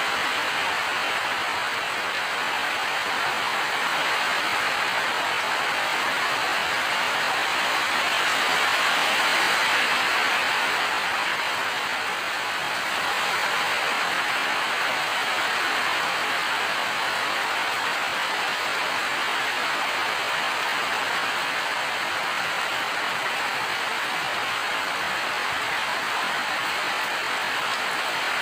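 Steady rain falling, an even hiss with a slight swell about a third of the way through.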